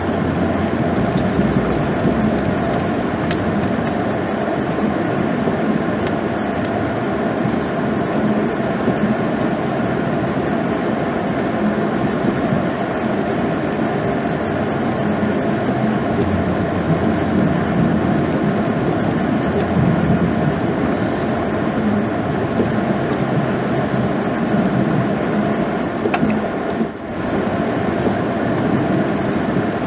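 2016 GMC Sierra pickup running steadily while plowing snow, an even dense rumble with a brief dip about 27 seconds in.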